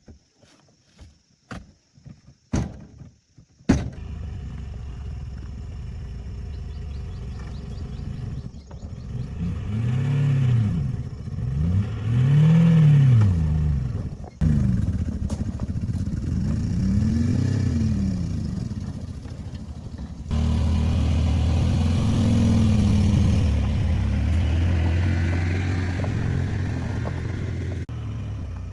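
Toyota car engine: a few sharp clicks, then the engine catches about four seconds in and runs, revved up and back down several times.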